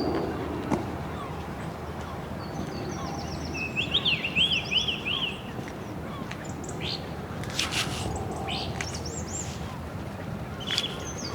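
Birds chirping and calling: a run of about five quick rising-and-falling chirps about four seconds in, with other short high calls scattered through, over a steady low rumble.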